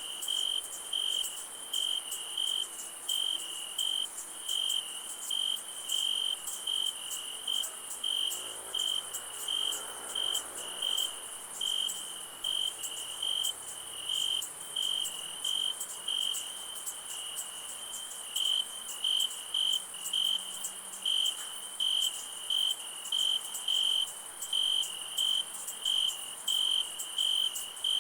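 Crickets chirping at night in a steady rhythm, about two chirps a second, over a constant high insect buzz.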